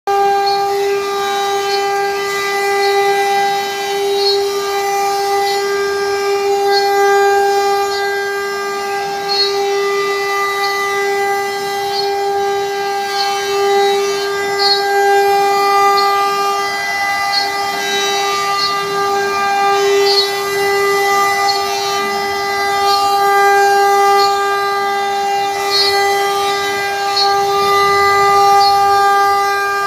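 CNC router spindle running at high speed with a steady, high-pitched whine that holds its pitch throughout, with faint scattered ticks over it.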